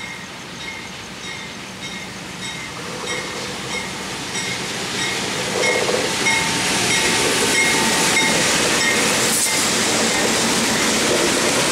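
Freight train led by two GE C40-8W diesel locomotives approaching and passing, the rumble of the engines and wheels swelling and loudest from about six seconds in as the locomotives go by. A bell dings steadily, about one and a half times a second, throughout.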